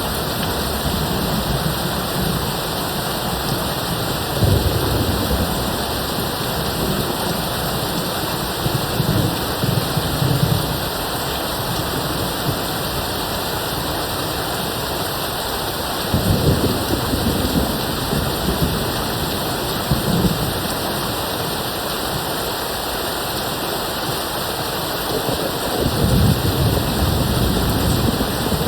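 Steady rain, with distant thunder rumbling low several times, loudest at about 16 seconds and again from about 26 seconds.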